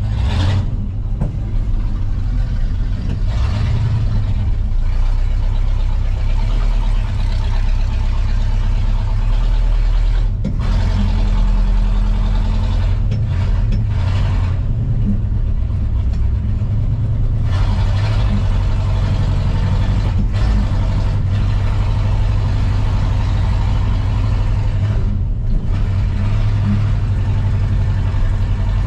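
1985 Ford F250 engine running as the stripped truck drives, with a steady low drone and road noise. The engine falls flat on its face whenever it is given gas.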